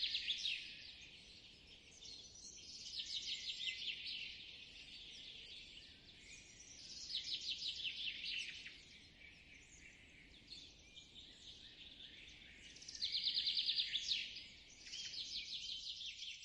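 Songbirds singing: fast trilled phrases of rapid high notes recur every few seconds, with softer chirps between them. The loudest trill comes about thirteen seconds in.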